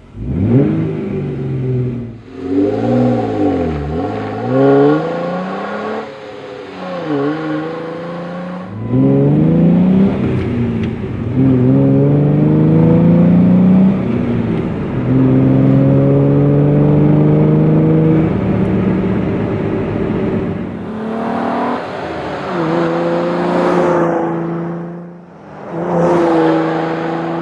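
A Jeep Wrangler JK's 3.6-litre V6 runs through a Flowmaster Force II axle-back exhaust with an 80 Series cross-flow muffler. First come several quick revs up and down. Then the engine pulls under acceleration, its pitch climbing and dropping back at each gear change.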